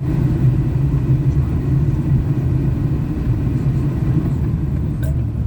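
A vehicle engine running steadily with a low, even hum while driving.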